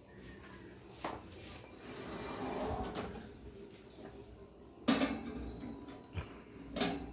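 Cookware and utensils being handled: three sharp knocks, the loudest about five seconds in, with softer clatter between.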